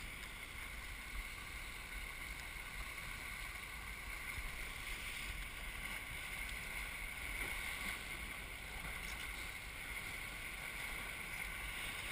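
Steady rush of water along the hull of a Melges 24 racing sailboat under way, with wind.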